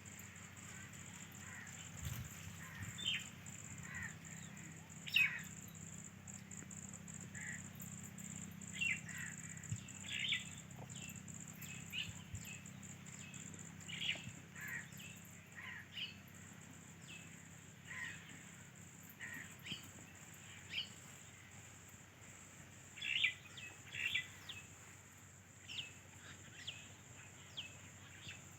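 Birds calling: many short chirps and calls come one after another throughout, some in quick pairs, over a steady low hum.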